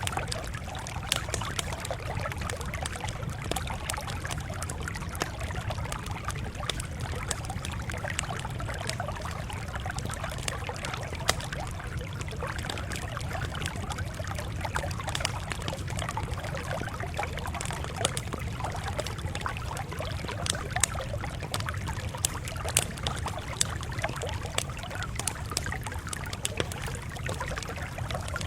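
Wood fire crackling: irregular sharp pops and snaps over a steady hiss and a low rumble.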